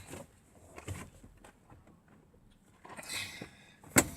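Faint rustling and light knocks from handling, with a brief scuffing noise about three seconds in, then one sharp click near the end.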